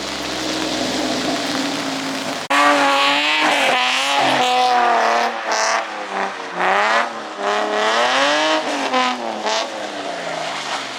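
A drift car's engine revving up and down under throttle as it slides, with tyre squeal over it. It suddenly gets much louder about two and a half seconds in.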